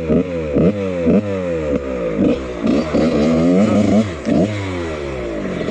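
1999 Husqvarna CR125's two-stroke single-cylinder engine being ridden with quick, repeated throttle blips, about two a second, the pitch jumping up and falling back each time, then holding steadier near the end.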